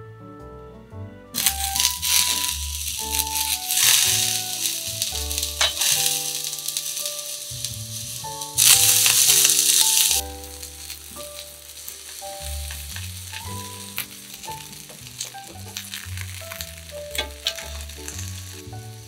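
Chunks of boiled potato and sliced sausages sizzling in hot olive oil in a frying pan, with small crackles. The sizzling starts a little over a second in and is loudest for about a second and a half just before the midpoint, then settles to a softer sizzle. Background music plays throughout.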